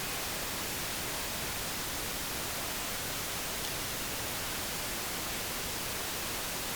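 Steady, even hiss with no distinct sounds in it. It is the recording's background noise.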